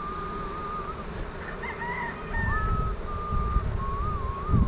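A bird, most likely farm fowl, calling in a string of long, thin, wavering notes, some held for over a second, over low rumbling noise that gets louder about halfway through.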